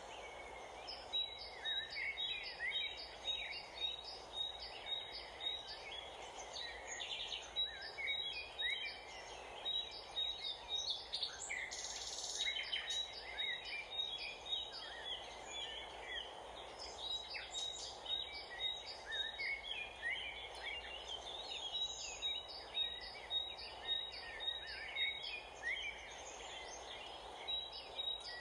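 Several birds chirping over and over in quick short calls, over a steady background hum.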